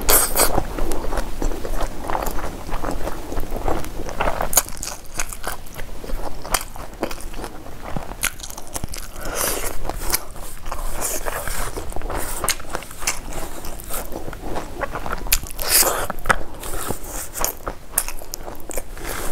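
A person chewing and crunching mouthfuls of crispy fried prawns with rice, in irregular crisp crackles that bunch up in louder runs about four, ten and sixteen seconds in.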